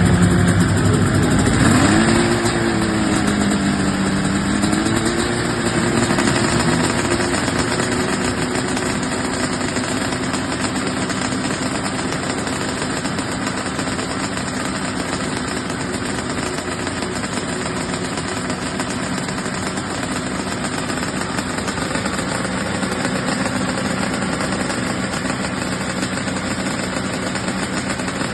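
Multi-engine pulling tractor running hard at full throttle under load down the track, a loud, dense engine noise. The engine pitch climbs and wavers over the first few seconds, then holds steady.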